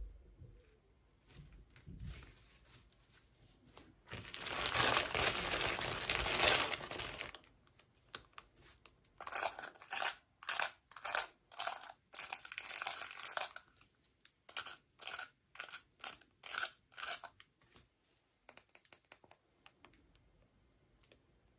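Plastic packaging being torn open and crinkled by hand. A continuous tear lasts about three seconds, followed by a run of short crinkles about two a second and a few faint ones near the end.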